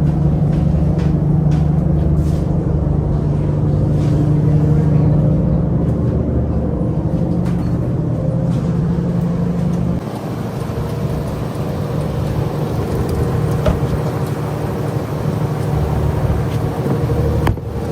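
Fishing boat's engine running steadily with a low, even hum; the lowest part of the sound drops away about ten seconds in.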